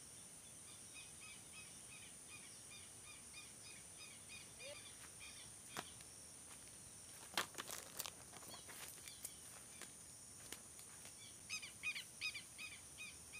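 Faint open-air ambience: a bird calls with a short repeated note, about two a second, over a steady high insect drone. The bird calls again, louder, near the end. A few sharp knocks and rustles come around the middle.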